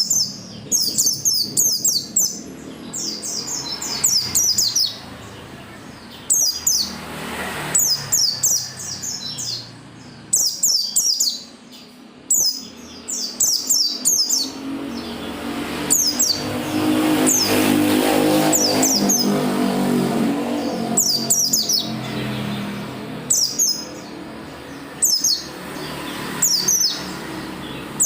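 Pleci (white-eye) singing in repeated short bursts of quick, high, downward-slurred chirps with brief pauses between them. A rushing noise swells and fades about halfway through.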